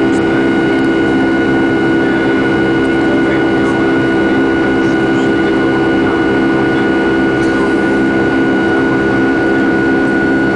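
Jet airliner engines heard from inside the passenger cabin during take-off: a loud, steady drone with a high, constant whine over it.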